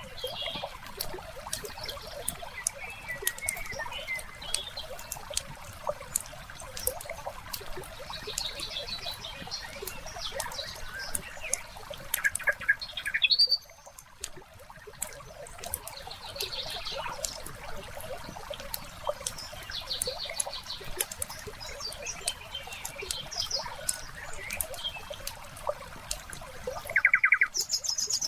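Wood fire crackling with scattered sharp pops, layered with small birds chirping and a faint trickle of water. The sound drops out for about half a second near the middle.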